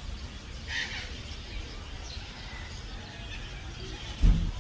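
Birds chirping now and then over a steady low rumble, with a single loud, dull thump near the end.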